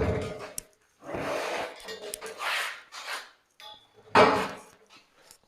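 Rubbing and scraping as objects are handled and moved, in several separate bursts with short pauses, the loudest about four seconds in.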